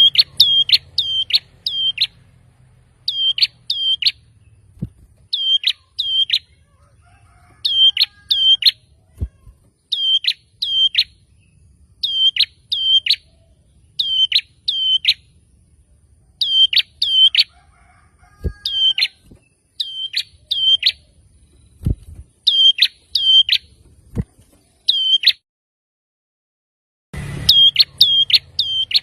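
Male prinia (prenjak) singing: quick phrases of two to five sharp, high notes, repeated every second or two. The song breaks off briefly near the end, then resumes. A few faint low knocks sound underneath.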